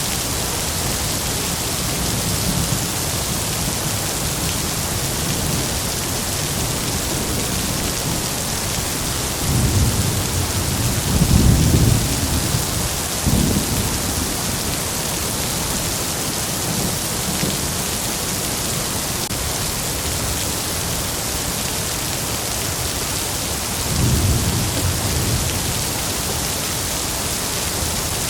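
Heavy rain falling steadily, with rolls of thunder rumbling low beneath it: a longer roll about ten seconds in, a short one soon after, and another about three-quarters of the way through.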